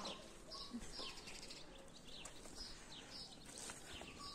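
Small birds chirping faintly: many short, high notes, each falling in pitch, repeated every fraction of a second.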